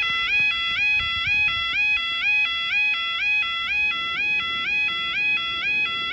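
Level crossing yodel alarm sounding while the barriers lower: a loud two-tone electronic warble repeating about twice a second, each cycle stepping from a lower tone up to a higher one.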